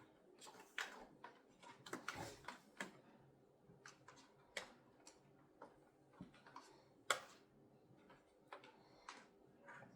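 Scattered light clicks and taps in an otherwise quiet room, irregular and a few a second at most, with a sharper click about 7 seconds in.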